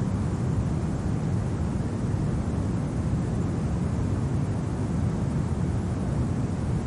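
Steady low rumble of winter wind, an even noise without gusts, clicks or crackles, heaviest in the bass.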